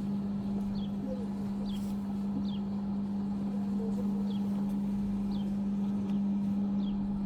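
A steady low hum, with a small bird giving a short falling chirp over and over, about once a second.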